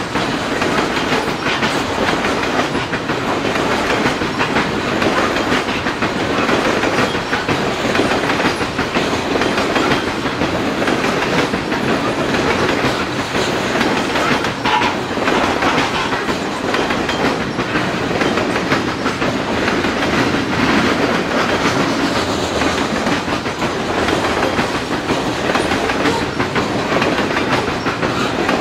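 Loaded coal hopper cars of a freight train rumbling past, a steady clatter of steel wheels on the rails that carries on without a break.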